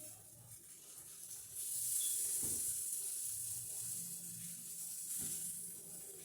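Chicken pieces sizzling as they fry in a pan, a steady hissing that grows louder about one and a half seconds in.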